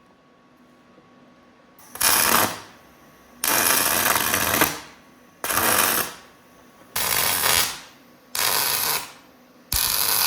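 Arc welding on steel brackets in six short bursts of about a second each, a steady crackle starting about two seconds in, each weld stopping before the next begins.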